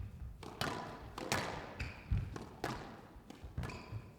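Squash rally: a hard rubber squash ball struck by racquets and smacking off the court walls, with sharp hits about every half-second to second and short squeaks of court shoes between them.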